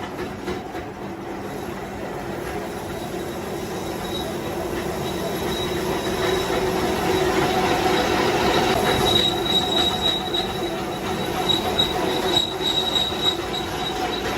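Power tool working on a steel truck wheel rim: a steady metallic grinding screech with a few held tones, growing gradually louder.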